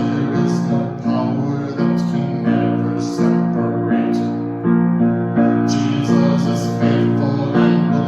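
Piano music: chords struck in a steady, regular rhythm.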